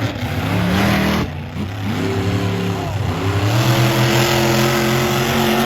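Monster truck engine revving, its pitch rising and falling a few times and then held high for the last couple of seconds.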